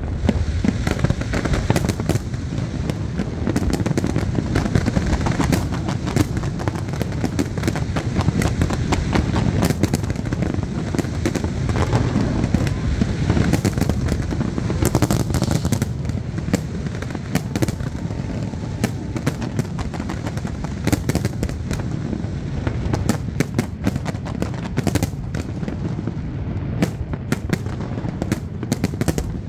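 Large aerial fireworks display: many shells bursting in quick succession, dense bangs and crackle over a continuous low rumble.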